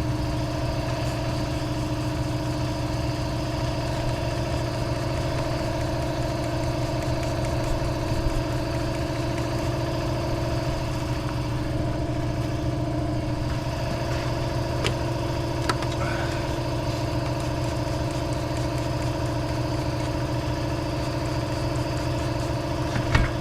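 A motor or engine running steadily at an even idle, its hum unchanged throughout, with a few light clicks around the middle.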